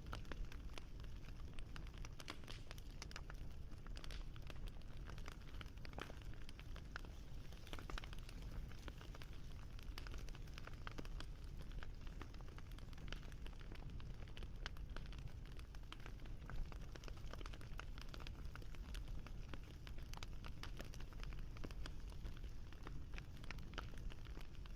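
Wood fire crackling steadily, with many irregular small pops and snaps over a low rumble.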